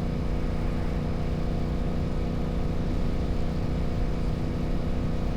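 Royal Enfield 650 parallel-twin motorcycle engine running steadily at cruising speed, over a steady rush of wind and road noise.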